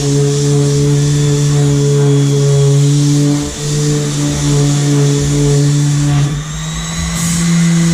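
Electric power sander running steadily against the boat with a hum and a high abrasive hiss. It dips briefly twice and runs at a slightly higher pitch after about six seconds in.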